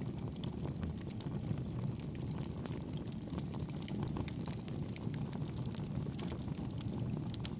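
Wood fire burning in a fireplace: a steady low rumble of flame with frequent small, sharp crackles and pops throughout.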